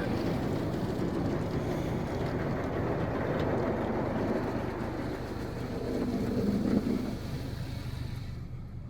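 Touchless car wash spraying foam and water onto the car, heard from inside the cabin as a steady hiss over a low hum; the spray fades out near the end.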